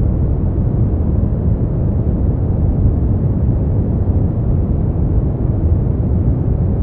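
Steady generated noise for sleep, sold as white noise: an even, unbroken hiss that is deep and heavy in the bass, with little in the treble.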